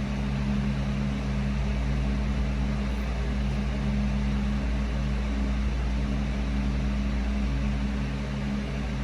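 Steady mechanical hum: two low tones over a low rumble and a light hiss, unchanging.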